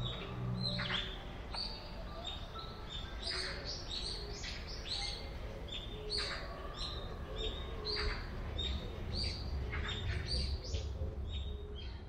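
Small birds chirping: many short, high calls, most dropping sharply in pitch, repeated every second or so.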